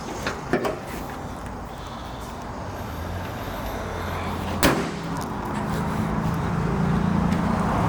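A car engine running steadily and growing louder. There are a couple of clicks just after the start and one sharp knock about halfway through.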